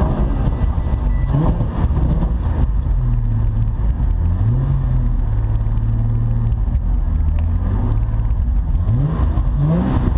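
A car engine revving: the engine note climbs in short rises and holds steady revs between them, over a constant low rumble.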